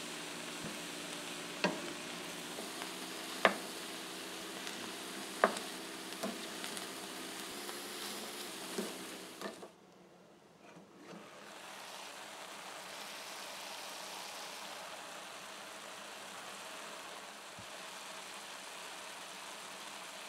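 Cauliflower and onions sautéing in a stainless steel pot, with a steady sizzle and a spoon knocking against the pot about six times during the first half. After a brief drop just before halfway, the sizzle carries on steadily.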